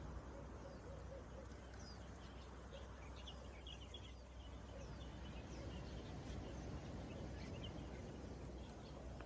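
Faint outdoor ambience: scattered short bird chirps and calls over a low, steady rumble.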